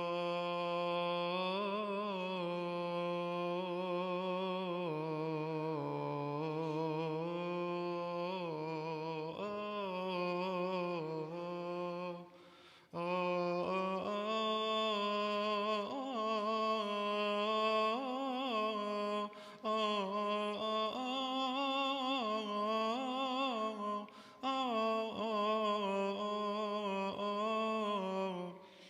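A single male voice chanting a long wordless melisma of Coptic liturgical chant, unaccompanied, the pitch winding up and down in ornaments, with two short breaths, about halfway and near the end.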